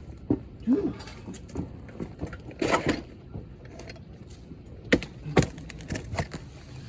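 Handling noise while working on an air conditioner: scattered clicks and knocks of parts and tools, with a short scraping rustle about three seconds in and two sharp knocks about five seconds in.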